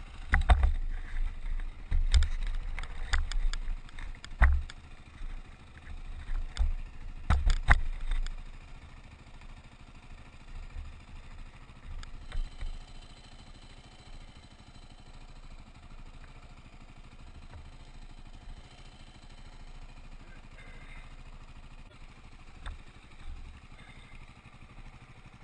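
KTM motorcycle running on the road, with heavy low rumbling and several sharp knocks over the first eight seconds, then settling into a steadier, quieter run.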